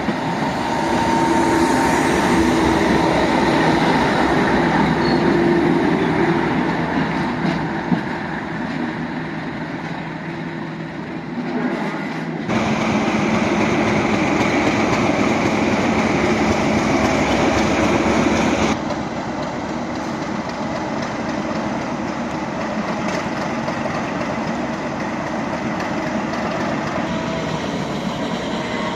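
British Rail Class 37 diesel locomotive running, its English Electric diesel engine heard as a loud, continuous mechanical noise. The sound jumps abruptly louder about halfway through and drops back a few seconds later.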